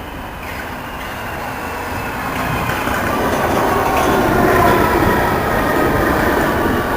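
Passenger train running into a station, getting louder from about two seconds in, with a rail rumble and a high whine that slowly falls in pitch.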